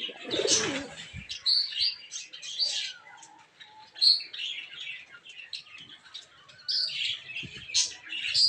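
Aviary birds chirping and tweeting in many short, high calls, with a low pigeon coo in the first second.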